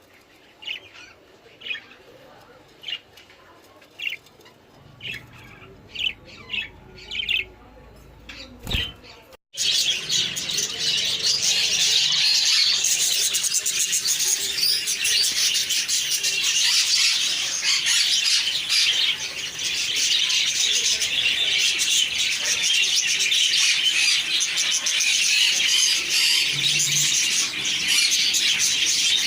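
Pet budgerigars and cockatiels calling: separate short chirps about once a second at first, then, after a sudden cut about nine seconds in, a dense, continuous chatter of many birds.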